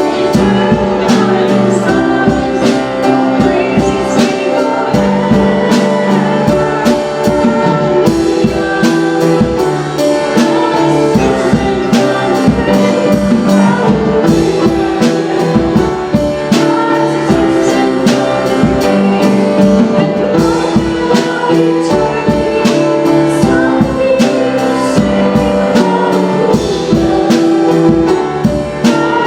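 Worship music from a band, with held chords, steady drum and percussion hits, and singing.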